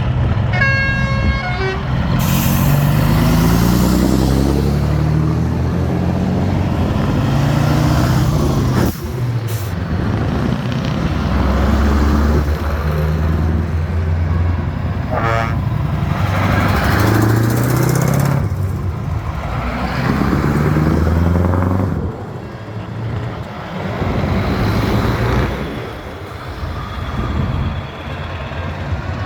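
Heavy truck engines driving by, revving up repeatedly through the gears. A short horn blast sounds near the start and another about halfway through.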